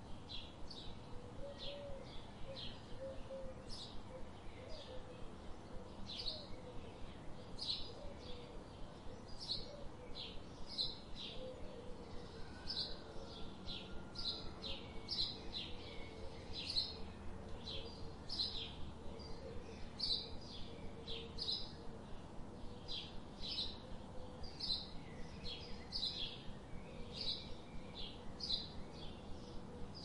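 Small birds chirping at a feeder: short high chirps repeated about once or twice a second.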